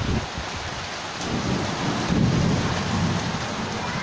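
Heavy rain mixed with hail pouring steadily down onto roofs and ground. A low rumble swells about a second in and eases near the end.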